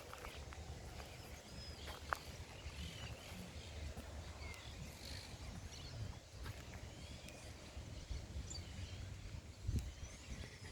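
Faint outdoor ambience: small birds chirping here and there over a steady low rumble.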